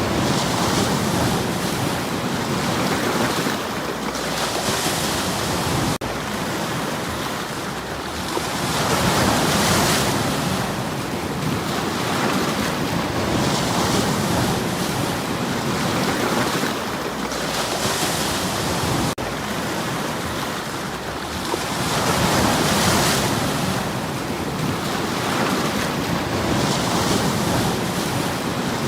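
Sea waves breaking and washing over the stones of a shore, swelling and ebbing every few seconds, with two larger surges. The steady rush has two very brief dropouts.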